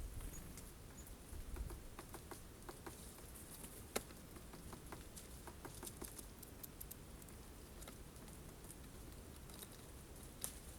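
Irregular light taps and clicks from birds pecking and handling sunflower seeds at a feeder, with one sharper knock about four seconds in.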